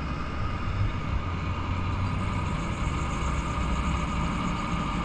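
Heavy gravel truck's diesel engine running at a steady idle.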